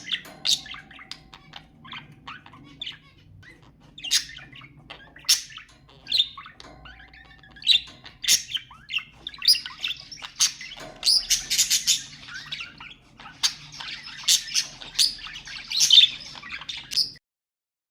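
Budgerigars chirping and chattering: sharp separate chirps at first, thickening into dense overlapping warbling from about halfway through, then stopping abruptly just before the end.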